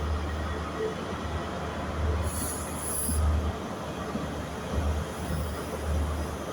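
A ScotRail HST (InterCity 125) pulling out with a low, steady rumble as its coaches roll past, and a brief high-pitched wheel squeal about two seconds in.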